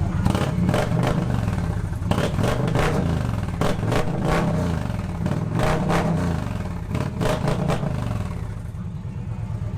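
Indian Challenger's liquid-cooled V-twin running through Tab Performance slip-on mufflers with zombie baffles. It idles with about five quick throttle blips, the revs climbing and dropping back each time, then settles to idle near the end.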